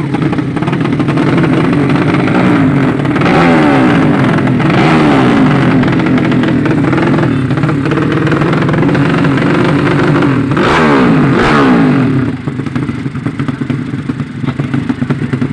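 Racing underbone motorcycle engines revving hard, their pitch climbing and falling several times. A burst of high revs comes about eleven seconds in, and the sound drops off somewhat near the end.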